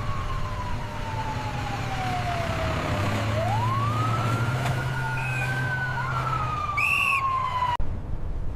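Emergency-vehicle siren in a slow wail, its pitch falling for about three seconds, then rising and sliding down again, over a steady rushing noise and low rumble. A brief high chirp sounds near the end.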